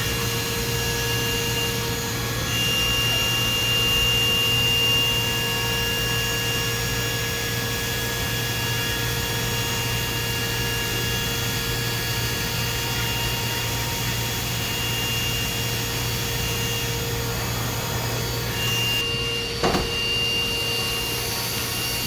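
DMG Mori DMC 1035V vertical machining center running a machining cycle on aluminum with its high-pressure through-spindle coolant: a steady hum and spray noise with a high steady whine. A short knock sounds near the end.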